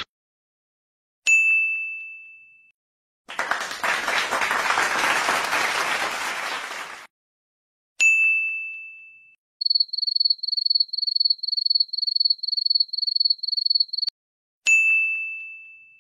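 A sequence of sound-effect clips separated by a bright ringing ding: a ding about a second in, then a few seconds of hand clapping, a second ding, then rapid high-pitched electronic beeping at about three to four beeps a second for some four seconds, and a last ding near the end.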